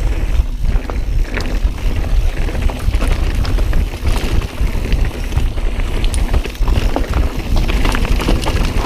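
Mountain bike riding over rough, rocky trail: a steady rumble of tyres on dirt and rock, with a run of rattling clicks from the bike, and wind buffeting the helmet camera's microphone.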